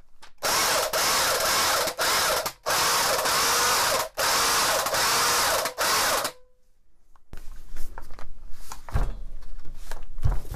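AEG BH25 rotary hammer's brushed motor running under power in a long run with a few brief breaks, then switched off and winding down with a short falling tone. It is being run to break in a re-seated carbon brush. Lighter clicks and handling noise follow near the end.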